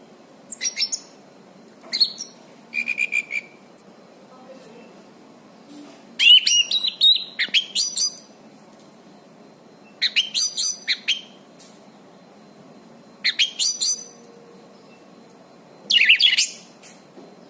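Anis cendana (orange-banded thrush) singing in full voice: short bursts of rapid, high chirps and quick sliding whistles, about seven phrases with short pauses between them. The longest and loudest phrase comes about six seconds in.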